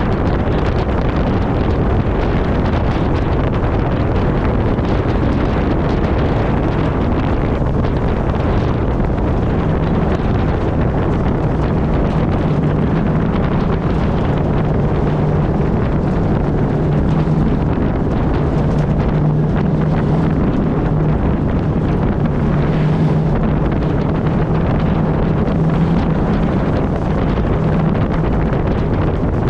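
Onboard sound of a Pro Truck race truck's engine running at racing speed, a steady low drone under heavy wind noise on the microphone.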